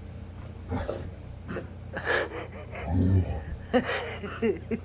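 Puppy making short breathy huffs and gasps with a few soft, high whimpers as it searches.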